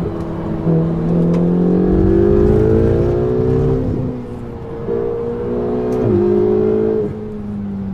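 Ferrari 488 GTB's twin-turbo V8 through a Capristo exhaust, pulling hard with its pitch rising for about three seconds. The pitch drops about four seconds in, climbs again in a shorter pull, falls sharply at a gear change about six seconds in, then holds steady.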